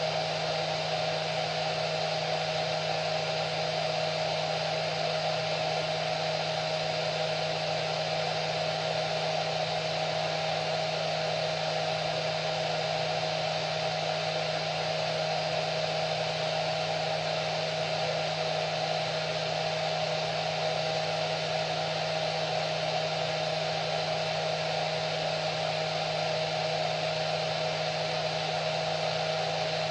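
Hair dryer running steadily: an even rushing hiss of air with a constant motor hum, unchanging throughout.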